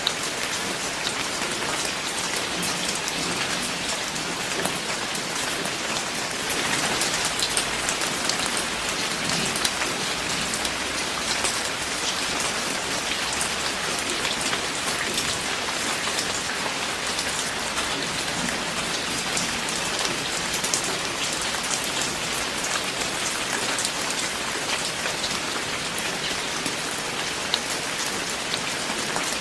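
Steady rain falling, a constant hiss with many individual drops ticking close by; it grows slightly louder about a quarter of the way in.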